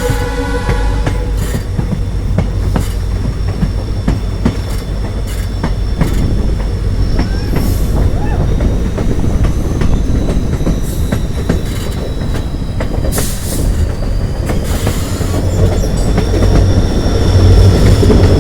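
Passenger train running along the track with a steady low rumble and wheels clicking over rail joints, with a thin high wheel squeal that wavers slightly in pitch; it grows louder near the end.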